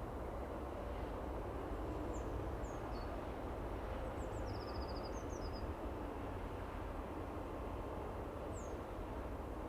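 Small songbirds giving a few high, thin chirps and one quick trill between about two and six seconds in, with one more chirp near the end, over a steady low background rumble.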